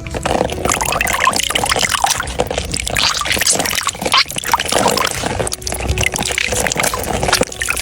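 Liquid pouring and trickling: a dense, irregular splashing hiss.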